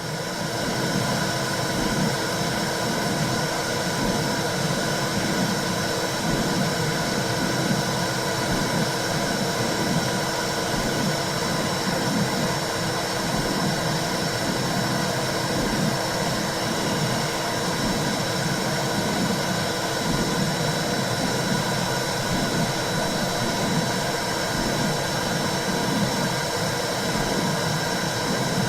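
Recorded womb sound for soothing a baby: a steady whooshing white noise with a low rhythmic pulsing in the bass and a few faint steady tones.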